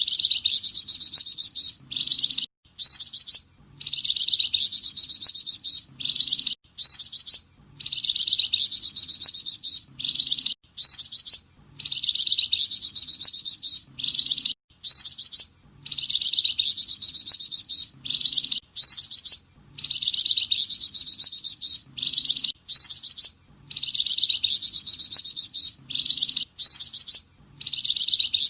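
Songbird of the kind Indonesian bird keepers call flamboyan, singing its 'tembakan' song for masteran: high, rapid trilled phrases about a second and a half long, repeated over and over with short, even breaks.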